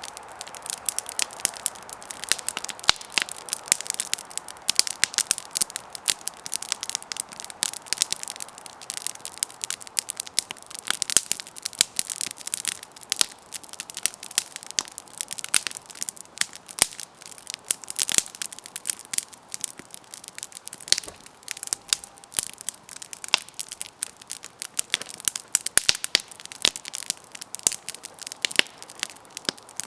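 Campfire burning: wood crackling and popping in dense, irregular snaps, with a soft hiss underneath.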